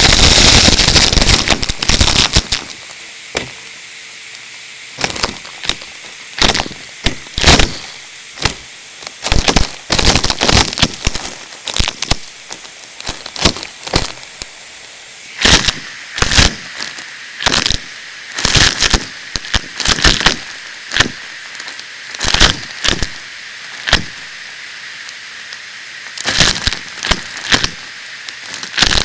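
Numatic tub vacuum cleaner running with a steady hiss, with loud crackling and rattling bursts about once or twice a second as debris is sucked through the tube. The crackling is dense and continuous for the first two seconds, then comes in separate bursts.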